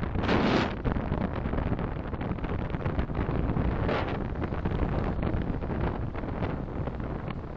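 Steady road and engine rumble of a moving car, picked up by a dashcam microphone, with two brief louder swells of noise about half a second in and about four seconds in.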